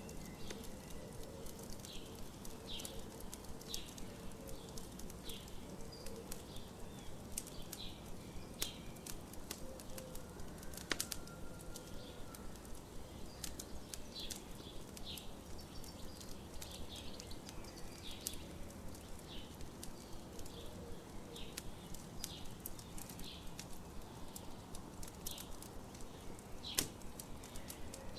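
Campfire crackling with frequent sharp pops, over birds chirping in short repeated notes.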